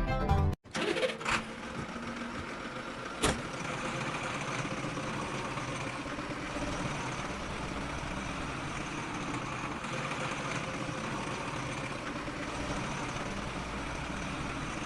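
A motor running steadily, with a brief sharp click about three seconds in.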